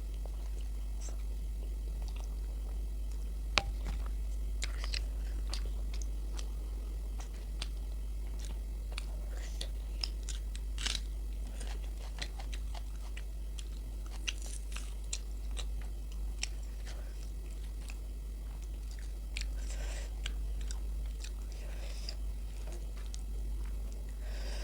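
Close-miked chewing and biting as a person eats luchi with aloor dum, with scattered sharp mouth clicks throughout and the loudest click about three and a half seconds in, over a steady low hum.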